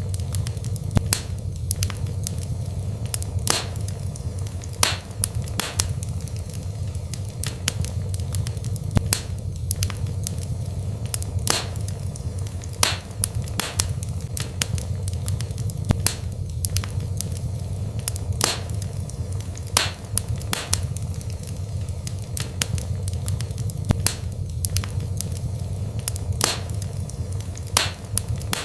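Wood fire burning in a fireplace: irregular sharp crackles and pops, some louder, over a steady low rush of flames.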